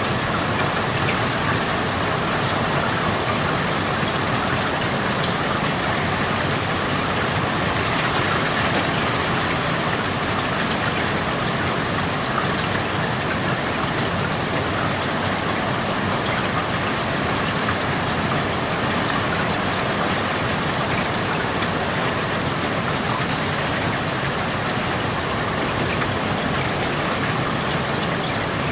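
Steady rain heard through an open window: an even hiss of rainfall with the fine patter of individual drops, unchanging throughout.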